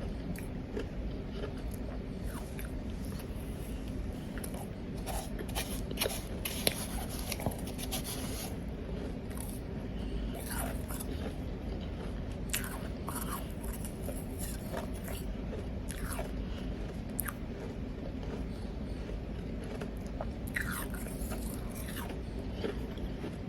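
Powdery ice being bitten and chewed close to the microphone: irregular crunches, thickest in a flurry about a third of the way in and again near the end, over a steady low background hum.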